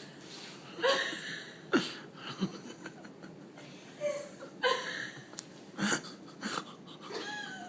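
People laughing in short, breathy bursts, several times over a few seconds.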